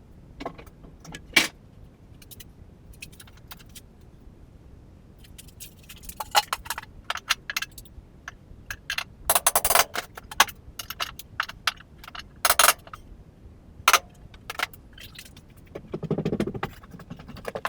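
Irregular metallic clanks, knocks and jangling from demolition work with a pry bar on floor joists and their metal joist hangers, with a few louder ringing strikes.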